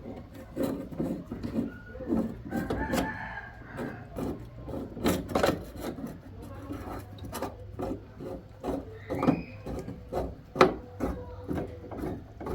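A clamp being set on a sheet-steel repair panel and the panel pushed into place: a run of irregular metallic clicks and knocks, with a brief squeak about three seconds in and another near nine seconds.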